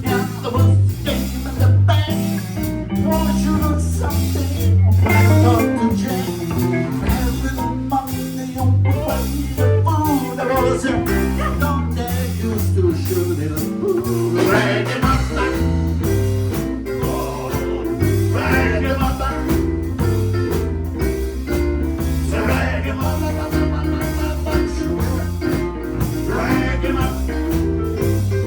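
Live blues band playing a passage without vocals: a guitar picks lead lines with bent notes over a walking bass and a steady drum beat.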